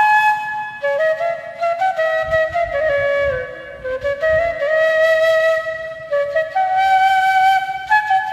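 Background music: a flute playing a slow melody of long held notes.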